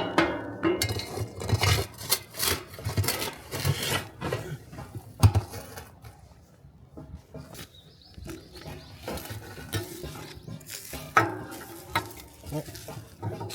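Irregular metallic clinks, knocks and rustling from metal tools or cookware being handled, with a sharp louder knock about five seconds in and another about eleven seconds in.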